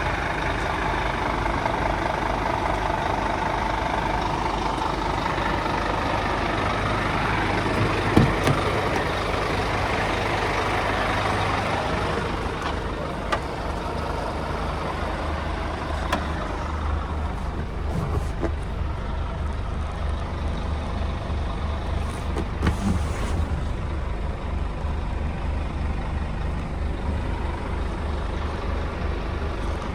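Scania P280 truck's five-cylinder diesel engine running steadily, with a single sharp knock about eight seconds in. From about twelve seconds in the sound turns quieter, down to a pulsing low throb.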